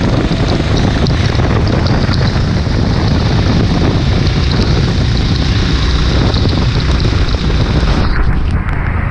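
Wind buffeting the microphone over a steady low rumble of racing kart engines. The upper hiss drops away abruptly about eight seconds in.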